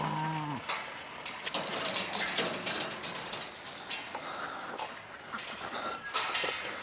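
A short bleat right at the start, then irregular rustling and light knocks.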